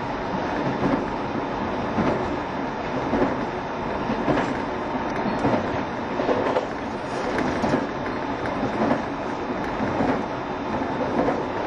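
JR Shikoku 7200 series electric train running at speed, heard from inside the car. A steady rumble of wheels on rail is punctuated by a click over a rail joint about once a second.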